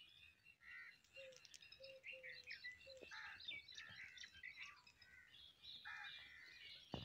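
Faint birdsong: several small birds chirping and twittering in quick, overlapping short notes, with a few short lower whistled notes in the first few seconds.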